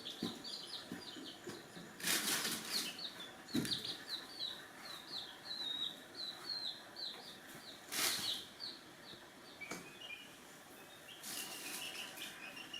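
Chickens: a run of short, high, falling peeps, two to three a second, fading after about eight seconds. Several brief noisy bursts of wing flapping break in, the loudest about two and eight seconds in.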